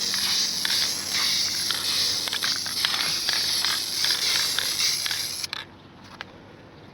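Aerosol can of Rust-Oleum metallic-finish spray paint hissing steadily as the paint is sprayed, cutting off suddenly with a click about five and a half seconds in as the nozzle is released.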